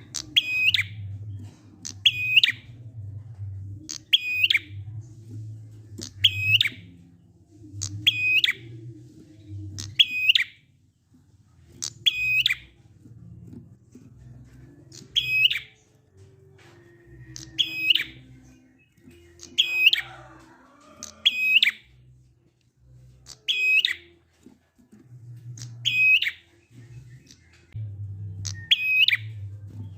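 Prinia (prenjak) giving a short, sharp, high call about once every two seconds, sometimes two in quick succession, in the slow-paced 'ngalun' style, over a low hum.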